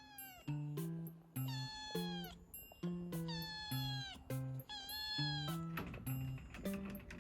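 Orange tabby cat meowing about four times, each long call sliding down in pitch: the cries of a cat stuck up high that can't get down. Background music with plucked notes plays under the meows.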